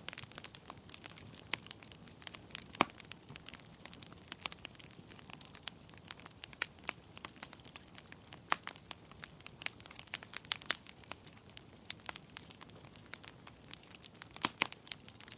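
Wood fire in a fireplace, the logs crackling with irregular sharp pops over a soft steady hiss; a few louder pops stand out about three seconds in and near the end.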